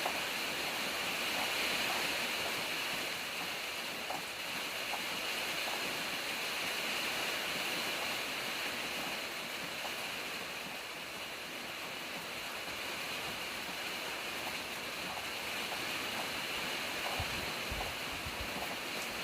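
Steady rain falling, an even hiss with faint scattered drip ticks. A brief low rumble comes near the end.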